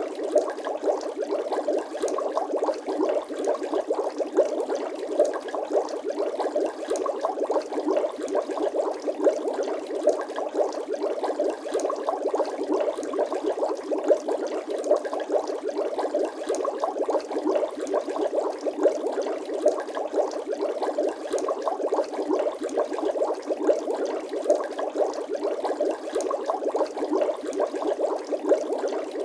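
Bubbling water sound effect: a steady, dense stream of small bubbles gurgling and popping, without a break.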